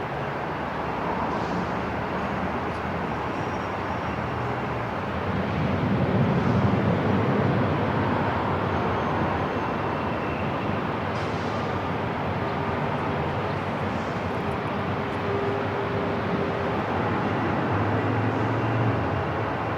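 Airport ambience: a steady wash of background noise with a low rumble that swells about six seconds in and again near the end, with a few faint tones and light clicks.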